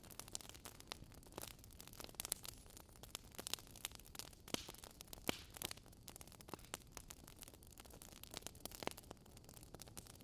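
Quiet fire crackling: irregular sharp pops and snaps over a soft steady hiss.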